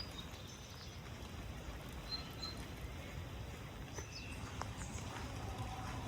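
Outdoor ambience: a steady low rumble with small birds chirping faintly and intermittently over it.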